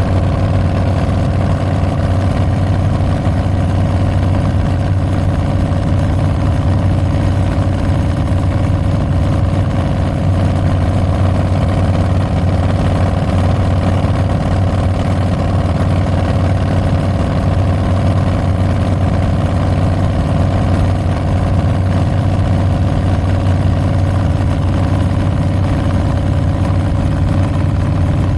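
Harley-Davidson Milwaukee-Eight 114 V-twin running steadily through Tabs Performance slip-on mufflers with Zombie Baffles, a deep exhaust note at an even pitch with no revving.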